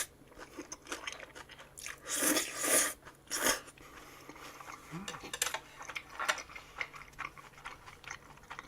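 Close-up eating sounds: biting and chewing a mouthful of salad-topped udon, with crunching of the greens and small wet clicks. There are louder bursts about two and three and a half seconds in.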